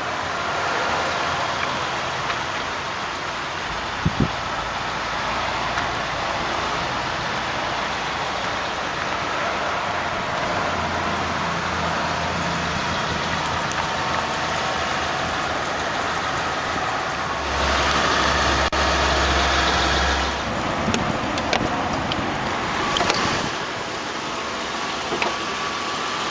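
1995 Lexus LS400's 4.0-litre 32-valve V8 idling steadily. A single sharp knock comes about four seconds in, and a louder stretch with a low hum lasts about three seconds past the halfway mark.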